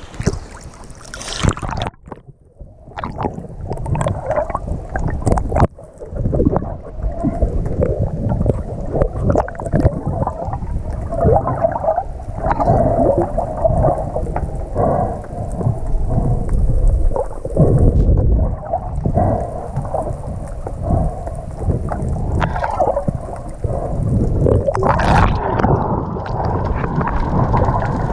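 Sea water rushing and gurgling along a moving yacht, with wind buffeting the microphone; the sound drops out abruptly for a moment about two seconds in and again near six seconds.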